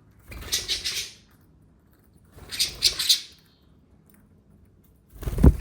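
Budgerigar chattering and chirping in three short bursts about two seconds apart.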